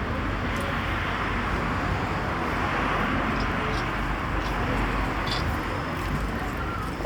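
Street traffic noise: a steady hiss and rumble that swells about halfway through as a vehicle passes, with a few faint clicks in the middle.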